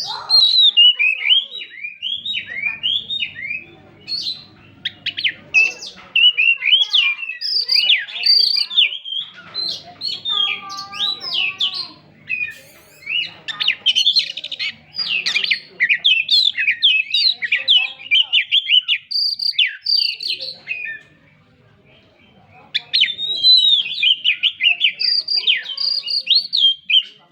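Oriental magpie-robin (kacer) singing a fast, varied song of whistles and chirps, broken by a pause of about two seconds two-thirds of the way through.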